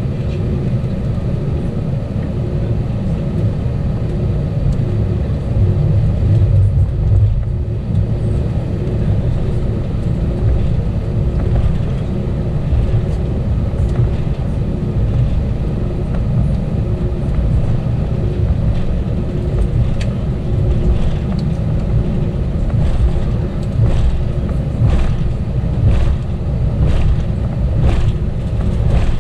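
Steady low rumble of an Airbus A320's engines and airframe heard inside the passenger cabin, with a faint steady hum. Several short clicks near the end.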